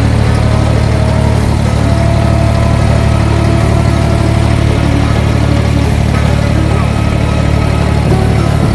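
Abra water taxi's diesel engine running steadily with a loud, even low hum, heard from on board during the creek crossing.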